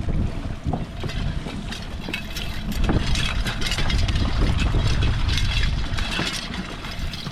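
Trolling boat's motor running steadily, with wind buffeting the microphone and some faint clicking over it.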